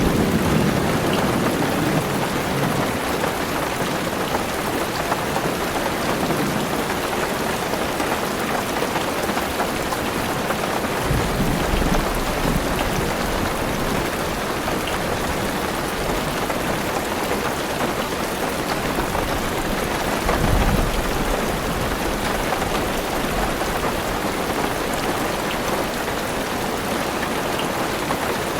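Heavy rain falling on a car's roof and windows, heard from inside the car as a steady, even patter. A low rumble of thunder comes about 11 seconds in and another, louder one about 20 seconds in.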